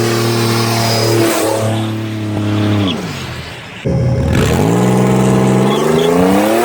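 Engine of a turbocharged 1996 Pontiac Trans Sport minivan's V6, held at steady high revs, then revs falling away about three seconds in. After an abrupt cut it climbs steadily in pitch under acceleration.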